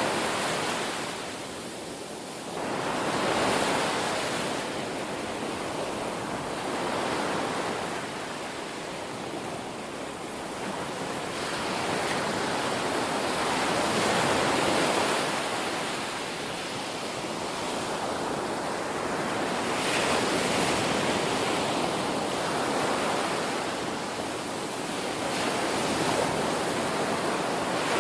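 Ocean waves breaking and washing on a shore, a steady rush that swells and eases every few seconds as each wave comes in.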